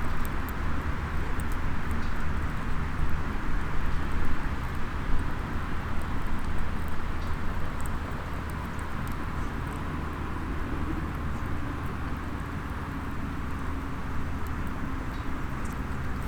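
Small wood fire in a SOTO mini fire pit, faint crackles ticking now and then over a steady low outdoor rumble, a little louder in the first half.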